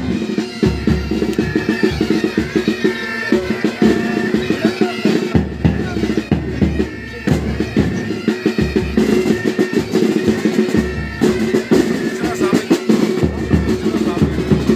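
Pipe band playing: bagpipes sounding steady drones under the chanter melody, with side drums and bass drum beating throughout.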